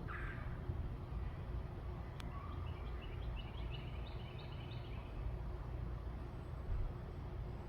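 Backyard bird calls over a steady low background rumble. A harsh falling call fades out right at the start. Then a quick series of short, high chirps follows from about two and a half to five seconds in.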